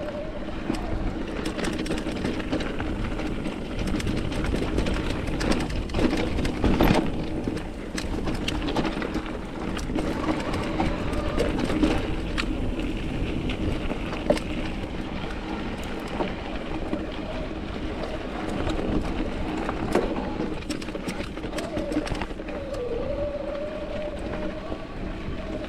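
Mountain bike riding over a rocky dirt trail: steady tyre and ride noise with frequent clicks, rattles and knocks from the bike, and a few harder knocks about seven and fourteen seconds in.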